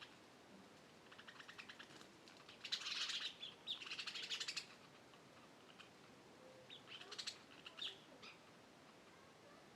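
Wild birds singing: short bursts of rapid, trilled chirps, strongest about three to four and a half seconds in, with another burst around seven to eight seconds.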